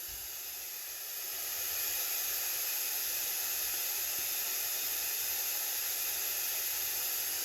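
Magicteam SN-A3 sound machine playing its blue noise setting: a steady, even hiss weighted toward the high end, with almost no low rumble. It swells up about a second in, then holds level.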